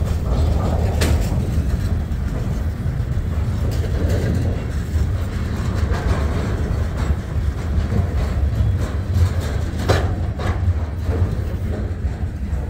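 Freight train cars rolling past: a steady low rumble of steel wheels on the rails. A few sharp clacks come about a second in and again around ten seconds in.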